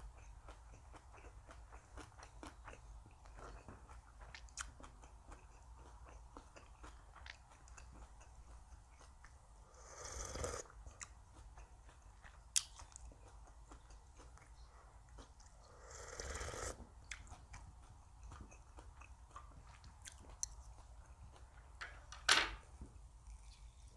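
Close-miked chewing of food, with many small wet mouth clicks and light crunches. Two short swells of louder noise come about ten and sixteen seconds in, and a brief sharp sound near the end is the loudest moment.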